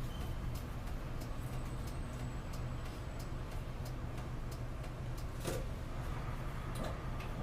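Inside a city route bus under way: the engine and drivetrain give a steady low drone, with scattered light clicks and rattles from the cabin, one louder knock about five and a half seconds in.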